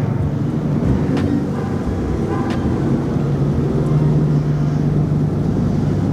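Car engine running steadily at low revs with a low drone, and a few brief clicks.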